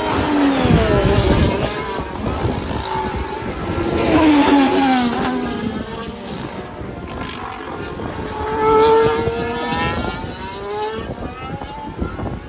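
Formula 1 cars' 1.6-litre turbocharged V6 hybrid engines passing at racing speed, three times, each engine note falling in pitch as the car goes by.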